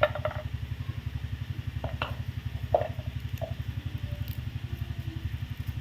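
A parrot biting and chewing apple: a few short, separate crunches and clicks spread over the first three and a half seconds, over a steady low pulsing hum.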